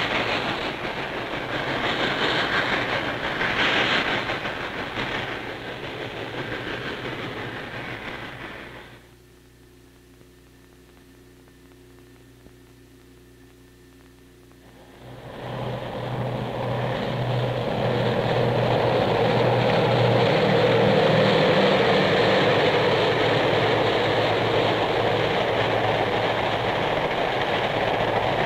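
A passing train running on the rails. About a third of the way in, the noise drops away to a faint low hum for several seconds, then the train's running noise returns louder and steady.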